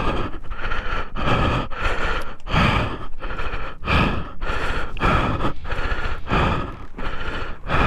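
A person breathing hard in quick, even gasps, about two a second, typical of a rider winded and shaken just after a motorcycle wipeout.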